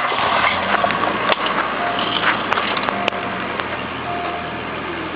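Car engine starting up and settling into a steady idle.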